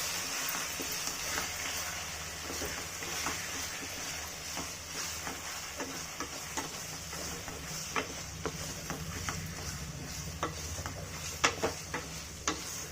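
Chicken pieces and onions sizzling in oil in a kadai as they are stirred and sautéed, with frequent short clicks and scrapes of the stirring utensil against the pan and one louder knock near the end.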